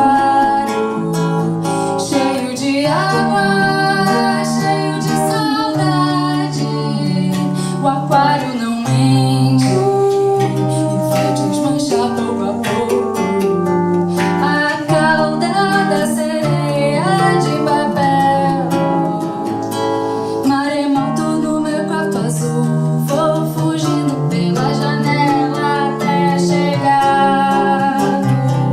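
Live acoustic band music: acoustic guitar with a steady bass line under a flowing melody line, played without break.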